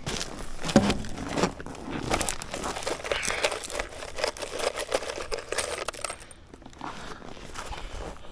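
Irregular crinkling and rustling with small knocks, as of sheet material being handled, busiest for about six seconds and then quieter.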